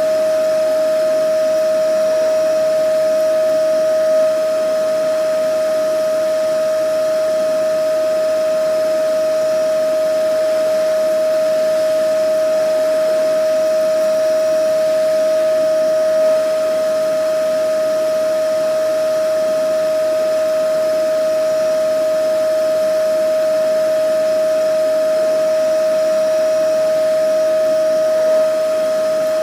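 Vacuum cleaner running steadily, a constant whine over a rush of air, with a slight bump about every twelve seconds.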